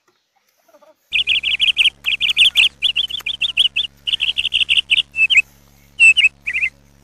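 Small bird chirping loudly and rapidly in quick runs of high chirps, about eight a second, broken by short pauses. It starts suddenly about a second in, after near silence.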